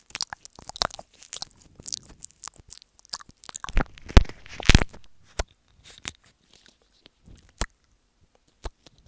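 ASMR mouth sounds made right against an earphone microphone: a run of wet lip and tongue clicks and smacks, with mouthing of the mic itself. The two loudest come a little past the middle, and the clicks thin out toward the end.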